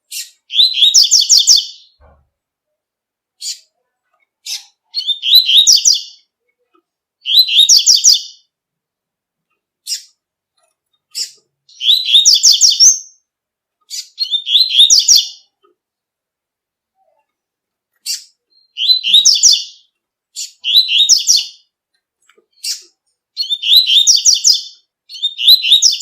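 Double-collared seedeater (coleiro) singing its tui-tui song: short phrases of quick, high notes about a second long, repeated every couple of seconds, with single short notes in between.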